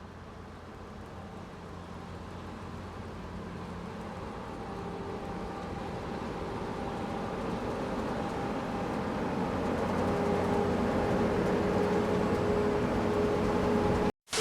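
Steady mechanical running noise, like a large vehicle or machine, growing gradually louder throughout, then cut off abruptly near the end.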